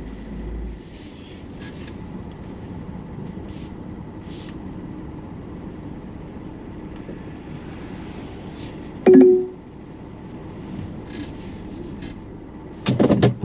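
Camper van's road and engine noise heard from inside the cab as it pulls into a parking area, a steady low rumble. About nine seconds in there is a sharp click with a brief tone, and near the end a short loud burst of noise.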